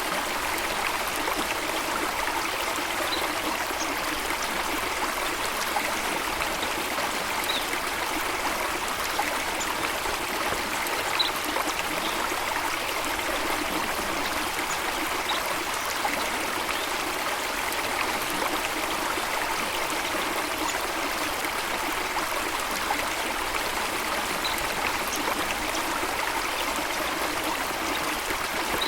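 Steady rushing of a stream or small waterfall, with a few faint, brief bird chirps scattered through it.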